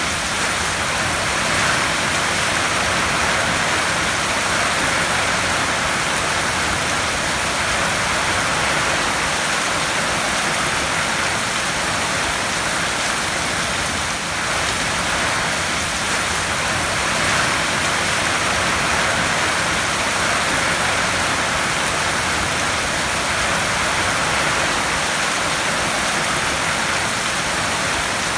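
Heavy rain pattering steadily on a metal tin roof, a dense even hiss of drops.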